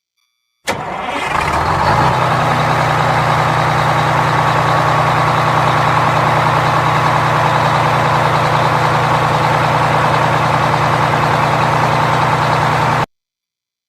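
An engine running at a steady idle. It starts abruptly, settles within about a second, and cuts off suddenly shortly before the end.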